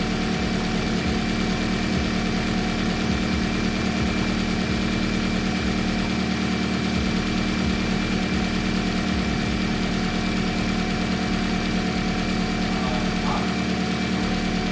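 Toyota Corolla's freshly swapped-in replacement engine idling steadily on its first startup.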